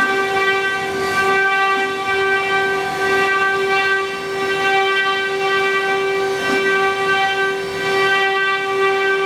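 Spindles of a 12-head 4-axis woodworking CNC router running, a steady high-pitched whine holding one pitch, with a faint hiss of cutting beneath it.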